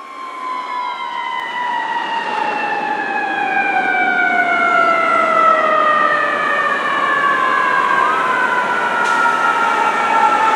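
Fire engine siren sounding one long, slowly falling wail, growing louder as the engine approaches, with a brief upturn in pitch near the end.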